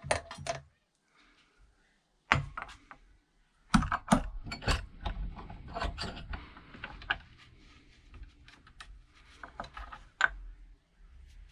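Hand tools clicking and knocking on a metal brake caliper as its corroded pistons are worked out: a scatter of sharp knocks, busiest in the middle and with one more loud knock near the end, over a low rumble.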